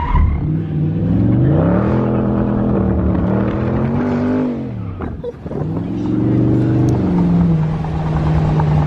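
A car engine revving: it climbs and holds high, drops back about halfway through, then climbs again and holds, as the driver gets the car loose in a slide.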